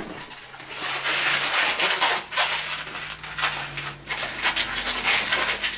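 Inflated latex modelling balloons rubbing against each other and against the hands in uneven bursts as they are twisted and tied together.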